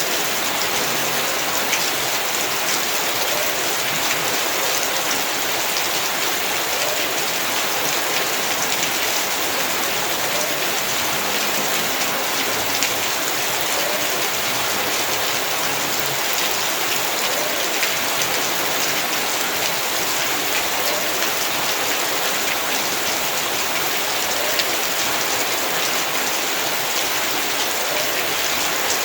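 Heavy rain falling steadily and hard on a yard: a dense, even hiss full of fine drop patter.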